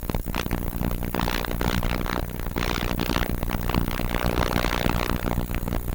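Loud, steady scraping and clattering noise, dense with clicks.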